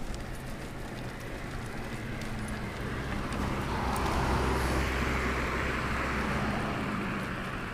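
A car passing the bicycle: its engine hum and tyre noise rise about halfway through and fade near the end, over steady low road and wind rumble.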